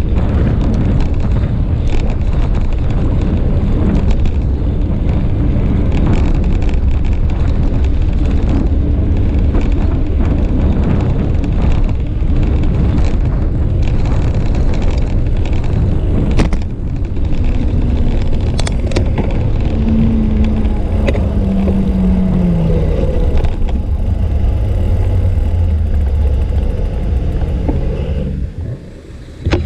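Steady low rumble of wind buffeting an action camera's microphone on a moving bicycle, mixed with road traffic. Past the middle, a passing motor vehicle's engine note drops in pitch, and near the end the rumble briefly drops away.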